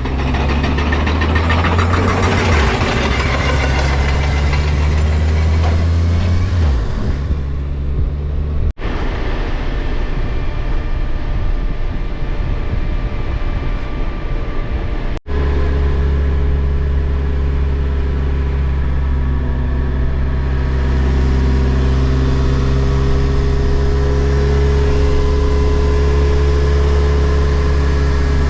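Motorcycle engine running steadily while riding, with wind noise over it for the first several seconds. The sound drops out sharply twice, at edits.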